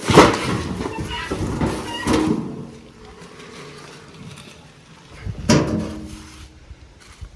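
Pieces of firewood being dropped onto a bonfire pile: three heavy wooden clunks with a short hollow ring, the loudest at the start, one about two seconds in and one about five and a half seconds in, with lighter knocking of wood between them.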